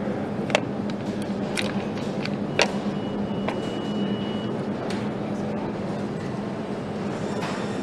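Motorcycle assembly-line workshop noise: a steady machinery hum with scattered sharp clicks and knocks of tools and parts. A thin high tone sounds for about a second and a half near the middle.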